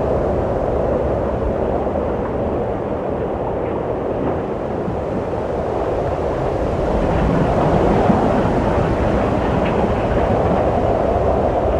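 Wind blowing steadily with a deep rushing sound that swells in a gust past the middle.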